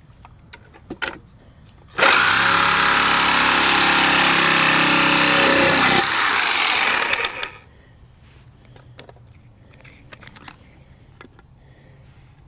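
A power tool starts about two seconds in and runs loud and steady for about four seconds, then winds down and stops a second and a half later. A few small clicks and knocks come before and after.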